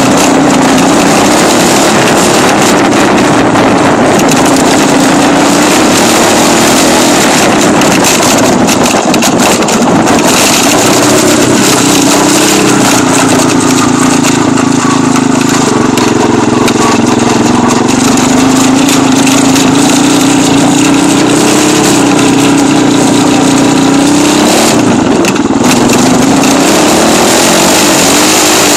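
Dirt bike engine running under way, loud and continuous, its pitch rising and falling again and again with the throttle.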